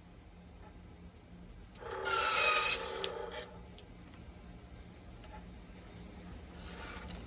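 Cuttlebone being cut: one loud scraping stroke lasting under a second about two seconds in, a few light clicks after it, and a fainter stroke building near the end.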